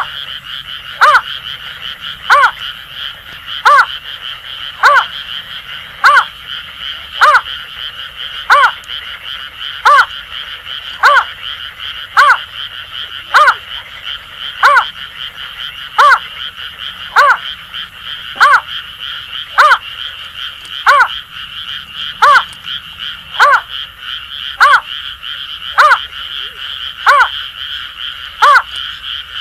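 Greater painted-snipe calling a short note over and over, about one every 1.2 seconds, over a continuous chorus of Asian grass frogs.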